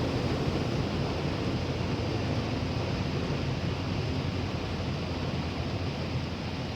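Automatic car wash spraying water over the car, heard from inside the cabin as a steady rushing noise.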